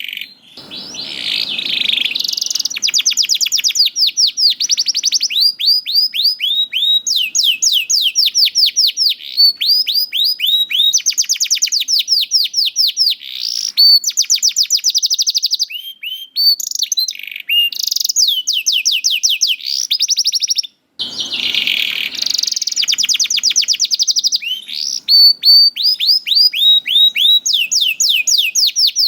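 Domestic canary singing a long continuous song of fast trills. Each phrase is a rapid run of repeated high, down-sweeping notes, and the phrases change every second or two. A harsher, buzzier note comes in about a second in and again after a short break around twenty seconds in.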